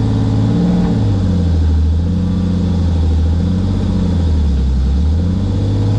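BMW E36's built S50 straight-six engine running while the car is driven, heard from inside the stripped, caged cabin. The engine note drops about half a second in, holds lower with a slight waver, and rises again near the end.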